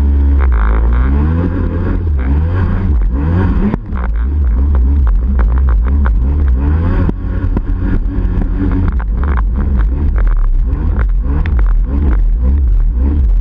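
Yamaha 701 two-stroke twin with a Riva pipe and waterbox running hard, revving up and down again and again over a heavy low rumble, with frequent short sharp clicks.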